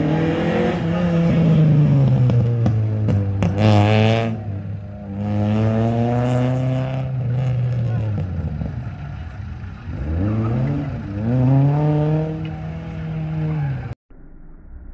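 Opel Kadett GSI's four-cylinder engine revving hard around an autocross course, its pitch climbing and dropping again and again with gear changes and lifts off the throttle. The sound cuts off suddenly near the end.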